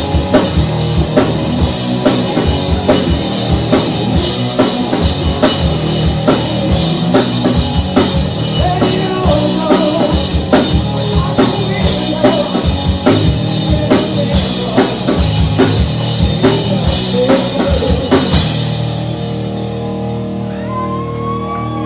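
Live rock band playing: drum kit hitting fast, steady beats under distorted electric guitars. About eighteen seconds in the drums stop and the guitars ring out.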